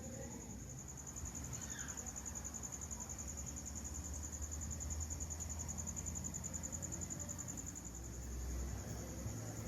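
Crickets chirping in a steady, fast pulsing trill.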